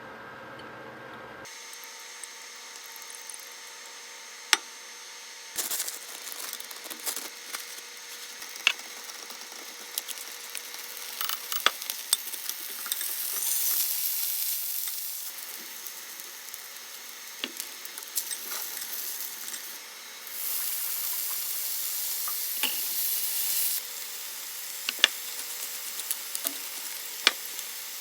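Kitchen cooking sounds: a steady hiss like food sizzling, which swells louder twice, with scattered sharp clicks and taps of utensils.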